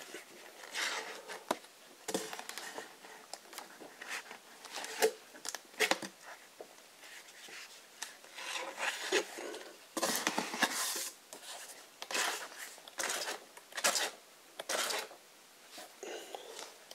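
Pages of a softcover rulebook being flipped through by hand: a string of irregular papery swishes and rustles as the sheets are turned, some turns louder than others.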